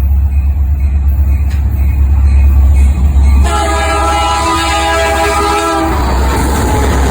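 Train at close range with a heavy low rumble throughout, and a locomotive air horn sounding a chord of several notes for about two seconds, starting about halfway through.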